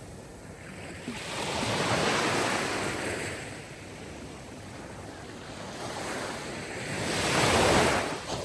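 Sea surf: waves washing in one after another, with a first swell building about a second in and fading, and a second, louder one peaking near the end.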